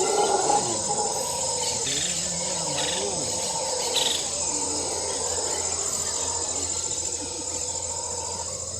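Insects chirring in a steady, high-pitched drone, with faint voices in the background.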